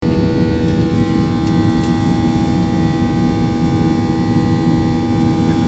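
Steady drone of an airliner's engines heard from inside the passenger cabin: a loud, even rumble with a constant hum of several steady tones.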